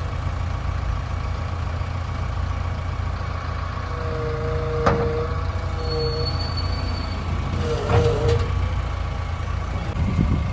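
Heavy diesel machinery running steadily, with short whines and a few sharp knocks about halfway through and near the end.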